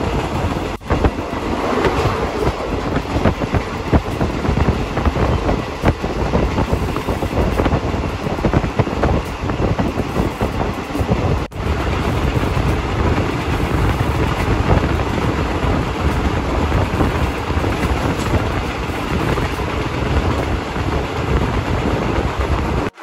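Moving passenger train heard from inside a third-class carriage: the steady rumble and rattle of the wheels running on the track, with two brief drops in the sound, about a second in and about halfway through.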